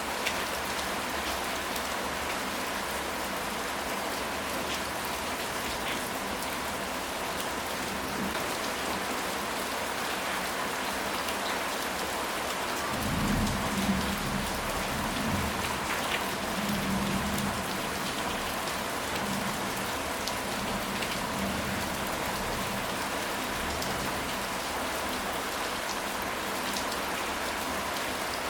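Steady rain falling on a surface, with a low rumble of thunder rolling through for several seconds about halfway through.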